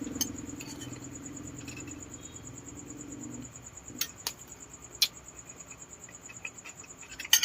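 Eating sounds of a balut mukbang: a low steady hum for the first three and a half seconds, then a few sharp clicks and smacks about four and five seconds in and a cluster near the end, over a steady high chirping of insects.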